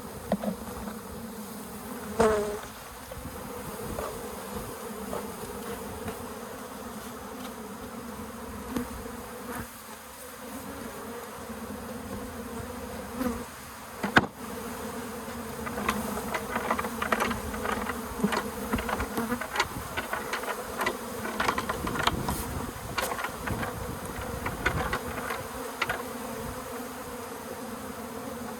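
A honey bee colony buzzing steadily in a dense hum, with a single bee passing close in a falling tone about two seconds in. There is a sharp click about halfway, then many small clicks and rustles of handling through the second half.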